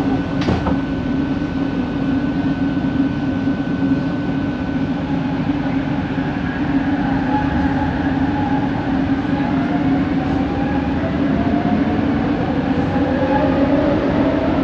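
Interior running noise of an original Kelana Jaya Line Bombardier ART train: a steady low hum and rumble with a sharp click just after the start. About halfway through, several motor whines begin rising slowly in pitch, the unusual linear-motor noise this train is known for.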